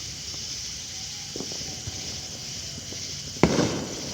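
Steady high-pitched outdoor hiss with a few faint ticks, and a single sharp thump about three and a half seconds in.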